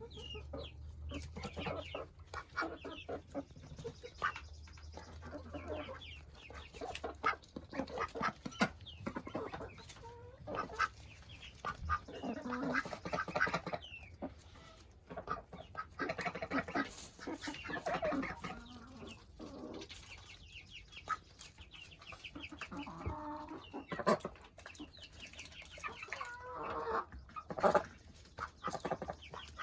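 Chickens clucking, with many short calls coming irregularly throughout.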